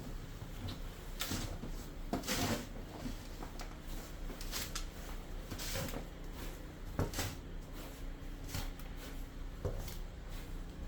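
A scattered series of short knocks and rustles, like objects being handled or a drawer or cupboard being worked, over a steady low hum.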